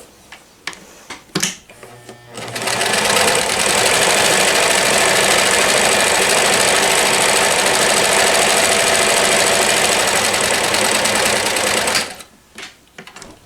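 1994 New Home Limited Edition Model 108 sewing machine running fast, sewing straight stitches. It speeds up about two and a half seconds in, runs steadily and stops abruptly near the end, after a few light clicks of handling at the start.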